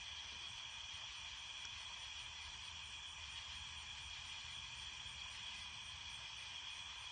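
A steady chorus of night insects such as crickets, a continuous high-pitched chirring that holds even throughout.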